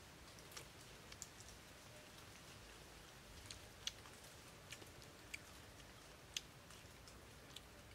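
Near silence broken by faint, irregular clicks of a person eating and chewing, roughly one or two a second.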